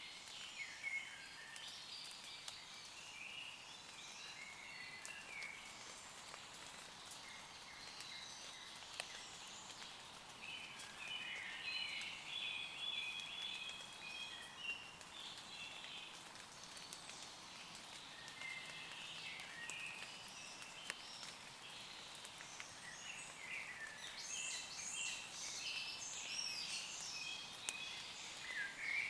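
Light rain pattering on leaves, a steady soft hiss with scattered drop ticks, while woodland birds sing in short chirping phrases, busiest midway and near the end.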